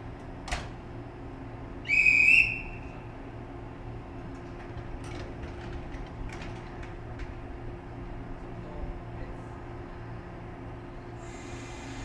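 A single short, loud, high-pitched whistle blast about two seconds in, over the steady low hum of the stopped 115-series electric train, with a sharp click shortly before it.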